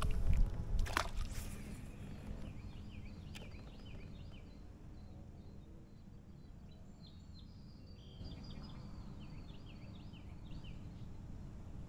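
Small songbirds chirping in quick runs of short high notes over a steady low outdoor rush. A few sharp clicks and knocks sound in the first second or two.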